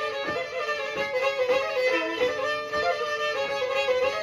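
Black Sea kemençe, a small bowed three-string fiddle, playing an instrumental passage between sung verses, its notes changing quickly around a steady pitch centre.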